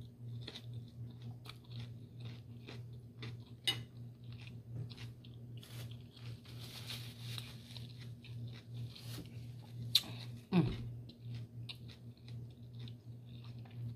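A person chewing and biting food close to the microphone, with crunching and many small irregular mouth clicks over a steady low hum.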